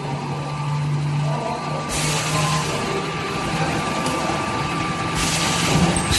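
Stretch-film vacuum packaging machine running with a steady hum. A burst of air hiss comes about two seconds in and another about five seconds in.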